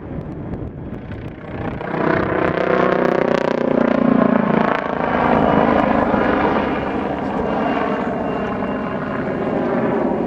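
MBB Bo 105 helicopter in display flight: its rotor and twin turbine engines, getting markedly louder about two seconds in and staying loud with a steady, many-toned hum.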